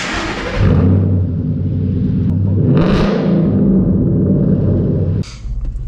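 Ford Mustang 5.0 V8 running through its exhaust, with a rev that rises about two and a half seconds in; the sound cuts off suddenly a little after five seconds, leaving a lower steady drone.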